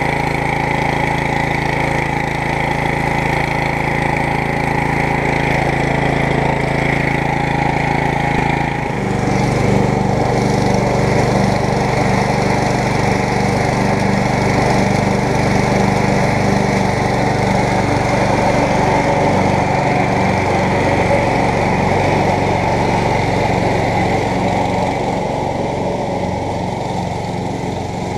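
MTD riding lawn mower's small gasoline engine running steadily, on test after a new drive belt has been fitted. About nine seconds in its note changes and turns choppier and uneven.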